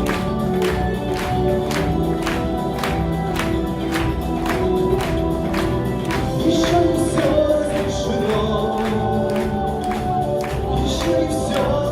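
Live band playing an instrumental passage of a song, with a steady beat of sharp percussive strokes about three a second under held chords and a melody line.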